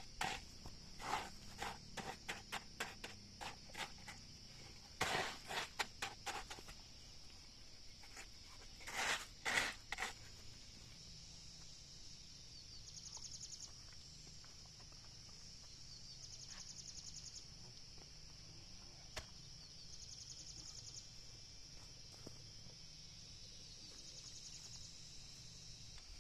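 Steady high-pitched insect drone with bouts of pulsing insect song rising over it every few seconds in the second half. Irregular knocks and clatter through the first ten seconds, loudest around five and nine seconds in.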